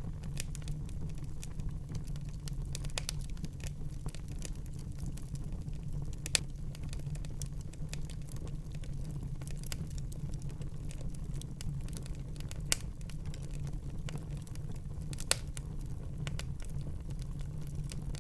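Wood fire in a fireplace crackling steadily over a low rumble of flames, with three louder sharp pops, about six, thirteen and fifteen seconds in.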